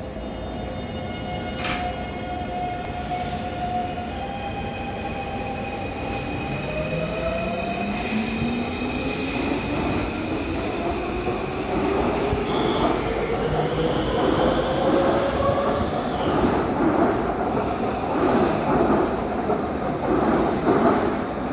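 Taipei Metro train pulling out of the station: its traction motors whine in several rising tones as it accelerates, over wheel-on-rail noise that grows louder as the cars go by.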